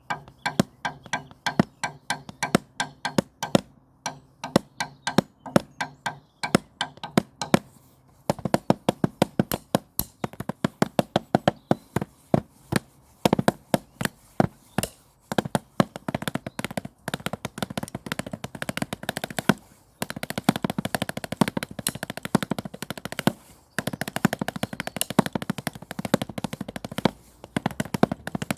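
Drumsticks struck in a fast improvised pattern, giving sharp, woody clicks. It starts with separate strokes, and about eight seconds in breaks into dense, rapid rolls with brief pauses.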